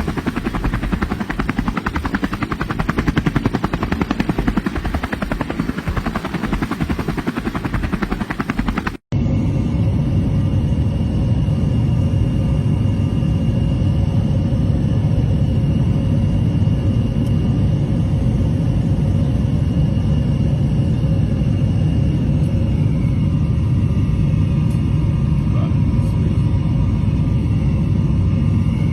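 A motor running with a fast, even pulse; after a sudden cut about nine seconds in, a steady low engine hum with a faint whine above it.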